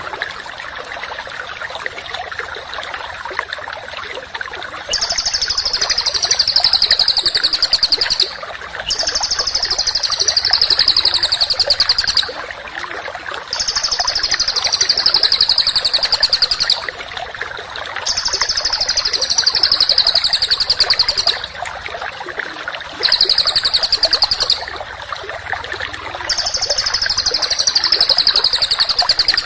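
A small songbird repeating a long, very rapid, harsh trill six times, each phrase lasting two to three seconds and falling slightly in pitch, with short pauses between. Steady background chatter of other birds runs underneath.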